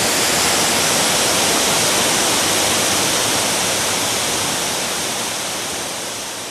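A waterfall's rushing water, a steady dense hiss that fades away over the last couple of seconds.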